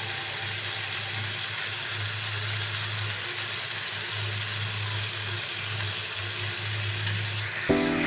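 Steady sizzling of food frying in a pan, an even hiss with a low hum coming and going under it.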